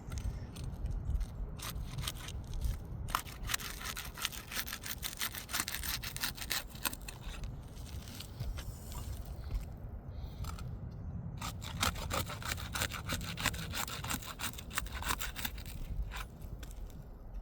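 A pry bar scraping along and cutting through the tar sealant strip of asphalt roof shingles to unseal them, a rapid crackling scrape. It pauses for a couple of seconds about nine seconds in, then resumes. A low steady rumble sits underneath.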